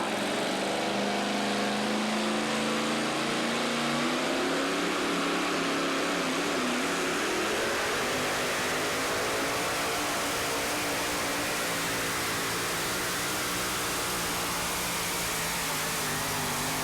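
Modified pulling tractor's high-horsepower racing engine running hard under load, its pitch wavering and shifting over a dense, steady wash of noise.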